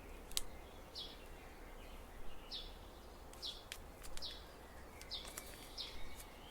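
A bird chirping over and over, a short high call repeated about every second. It is mixed with sharp clicks and rustles of paper being handled and creased.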